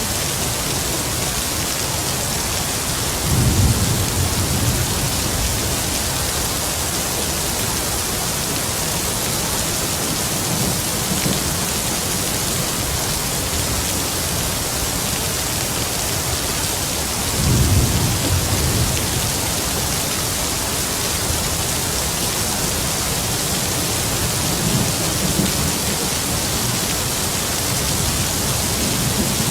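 Heavy rain falling steadily, with low rolls of distant thunder: two clear rumbles a few seconds in and past the middle, and fainter ones in between and near the end.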